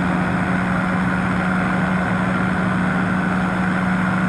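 Powered parachute's engine and propeller running steadily in flight, a loud even drone with a strong low hum.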